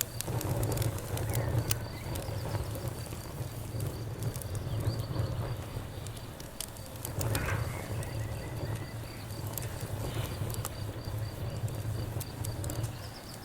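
Campfire burning with scattered sharp crackles and pops over a steady low rumble. Crickets chirp in the background with a high, even trill.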